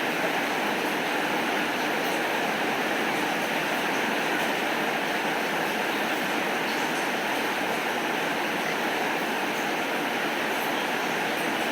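Steady rain falling: an even, unbroken hiss with a few faint scattered ticks.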